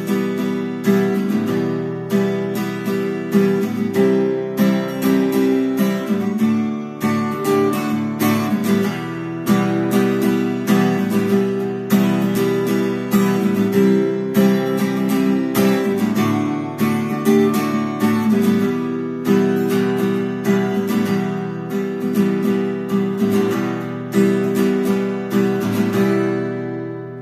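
Acoustic guitar strummed in a steady rhythm, the chords ringing on, with the sound dying away near the end as the song closes.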